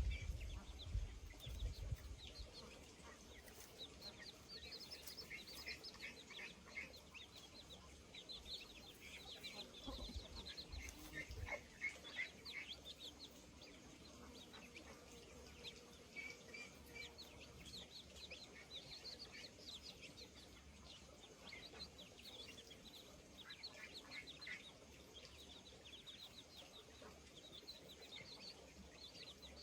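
Faint, busy chirping of birds: many short, quick high chirps overlapping all the way through. A few low rumbles come near the start and again about ten seconds in.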